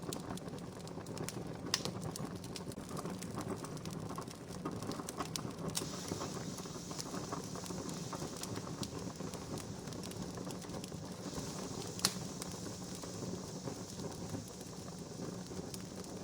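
Wood campfire crackling steadily, with scattered small pops and two sharper snaps, about two seconds in and near twelve seconds; a soft hiss joins about six seconds in.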